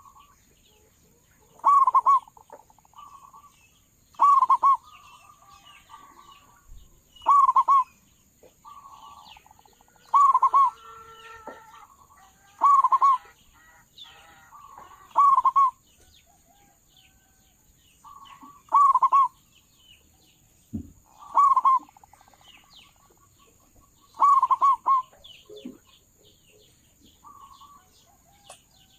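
Zebra dove (perkutut) cooing, a loud short phrase repeated about every two and a half to three seconds, the kind of call played to lure wild doves. Faint chirps of other small birds are heard between the phrases.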